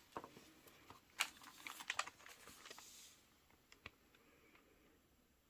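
Faint handling noises at a desk: a scatter of light clicks and taps over the first three seconds, then near quiet.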